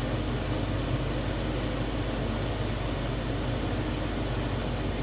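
A fan running: a steady low hum with an even hiss over it.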